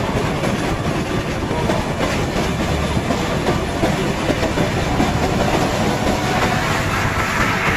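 Bamboo train (norry) running along the rails: a dense, steady rattling clatter of its wheels on the track.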